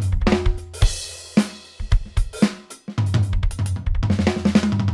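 Drum kit playing a fast sextuplet fill, with hand strokes and two bass-drum kicks in each group, moved between the floor tom and the hi-hat. A crash cymbal rings out about a second in and again right at the end.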